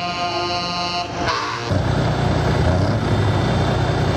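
A truck air horn blows a steady multi-tone blast for about a second and a half. Then the deep rumble of heavy truck diesel engines cuts in abruptly and runs steadily on.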